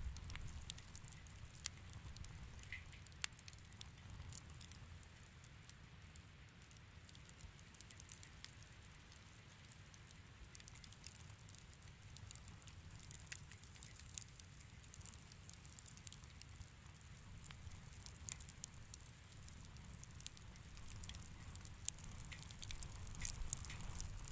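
Fireplace fire crackling softly, with scattered small pops and snaps over a steady low rumble; the pops come thicker near the end.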